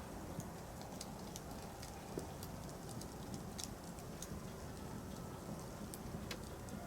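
Wood fire crackling: irregular sharp pops and ticks from burning firewood over a steady low hiss of the flames.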